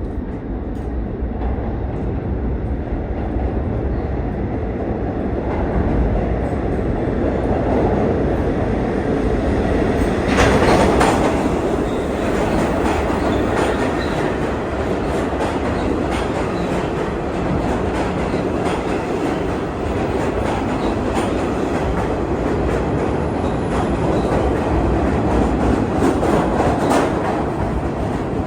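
New York City subway train running through the station, its wheels clacking over the rail joints over a steady rumble that swells about ten seconds in and again near the end.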